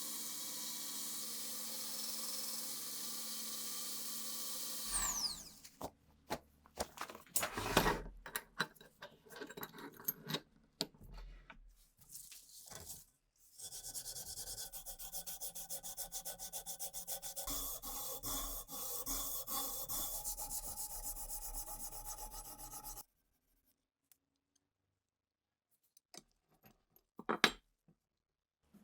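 Hand abrading of metal pistol parts: a steady hiss with a whine that falls away about five seconds in, then irregular scraping strokes, then a long stretch of fast, even rubbing that stops abruptly, leaving quiet broken by one brief knock near the end.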